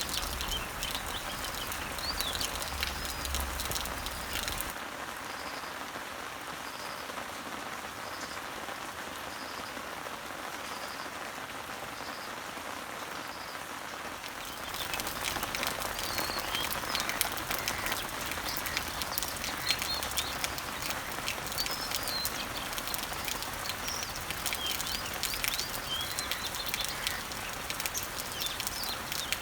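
Rain pattering on garden leaves and trees, a dense steady patter of drops, with birds chirping now and then in the background. Between about five and fifteen seconds in the rain is softer, and a short high note repeats about once a second.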